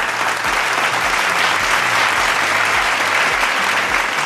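Crowd applause: a dense wash of many hands clapping that builds slightly in the first second and holds steady.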